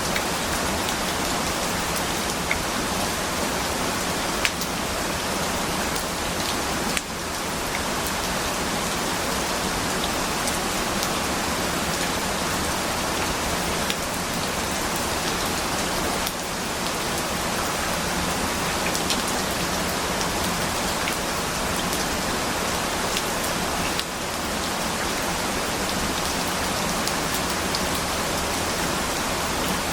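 Steady rain: a dense, even hiss of rainfall with scattered individual drop ticks.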